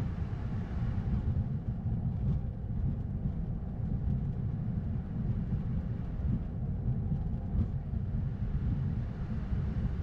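Steady low rumble on the flight deck of an Airbus A220-100 taxiing after landing, its Pratt & Whitney PW1500G geared turbofans running at idle.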